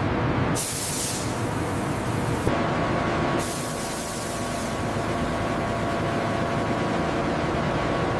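Hiss of a paint spray gun over a steady machinery rumble. A strong burst of spray comes about half a second in, and a softer hiss runs on from about three and a half seconds in.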